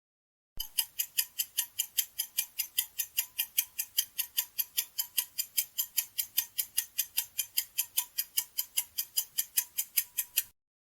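Clock-ticking sound effect of a quiz countdown timer: sharp, even ticks, about five a second, starting about half a second in and stopping just before the end.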